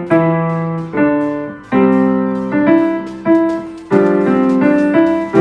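Electric piano or keyboard playing a simple tune, one note or chord struck about every second, each ringing on and fading slightly before the next.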